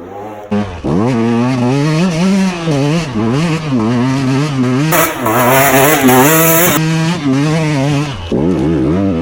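KTM EXC 125 two-stroke dirt bike engine revving, its pitch rising and falling over and over as the throttle is worked. Midway a loud hiss joins it for about two seconds, and near the end the revs drop away.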